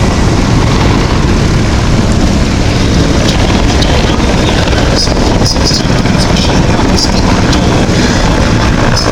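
Mil Mi-171Sh helicopter's main rotor and twin turboshaft engines making a loud, steady noise, with a heavy low rumble.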